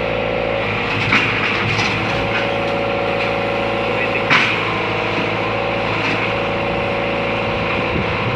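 Backhoe's diesel engine running steadily under work, with a steady whine that cuts in and out several times as the hydraulics work. Sharp knocks about a second in and again about four seconds in.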